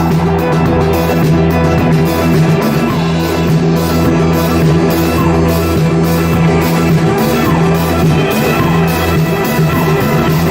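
Live band playing an instrumental passage of Turkish psychedelic rock: steady bass line and a regular drum beat under guitar and keyboard lines.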